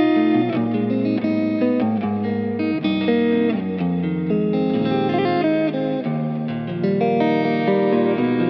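Vola OZ V3 MC electric guitar being played in a continuous run of quickly changing notes and chords.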